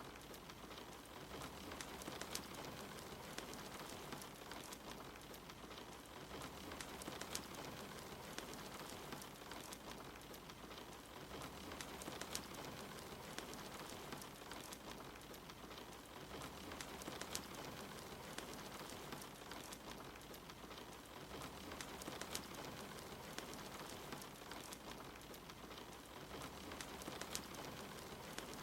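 Soft, steady rain mixed with the crackle of a wood fire in a fireplace, with scattered sharp pops and snaps.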